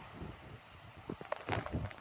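Heavy rain falling in a steady hiss, with irregular low rumbles of wind buffeting the microphone.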